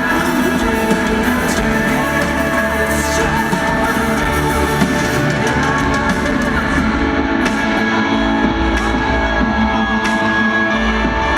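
Rock band playing live in an arena, with guitar and singing over a dense, continuous wash of sound.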